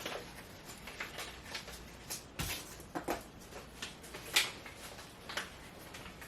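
Hands folding over and handling a small bundle of seeds: soft rustles and a dozen or so light, scattered taps, the loudest a little past four seconds in.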